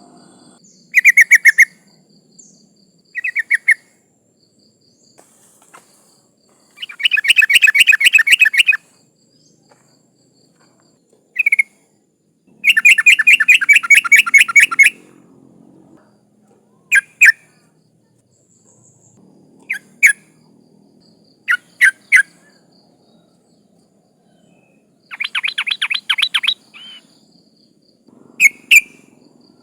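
Yellow-vented bulbul (trucukan), a female calling to males. It gives three runs of rapid chattering notes lasting about two seconds each, with short sharp single and paired notes between them.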